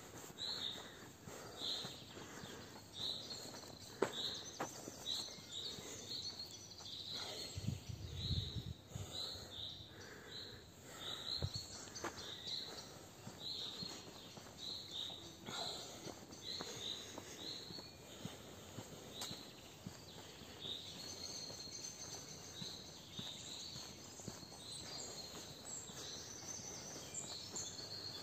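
Birdsong: a bird repeating short high chirps, about one or two a second, over a soft outdoor background, with a brief low rumble about eight seconds in.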